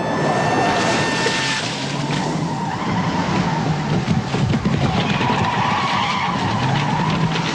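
Car tyres skidding and squealing over engine noise in a car chase, with a wavering squeal that runs through the second half.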